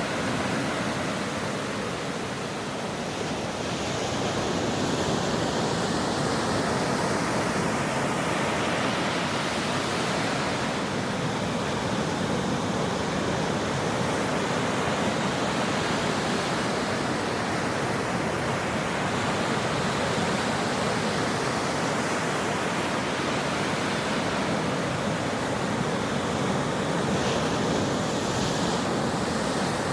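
Ocean waves breaking on a shore: a continuous wash of surf, with a slight dip in level around three seconds in before the sound swells again.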